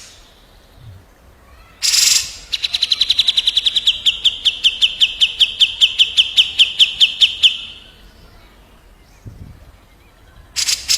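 Songbird calling: a harsh rasping note, then a fast rolling trill of about seven sharp downward-swept whistled notes a second that runs about five seconds and drifts slightly lower. Near the end a second rasp opens another trill.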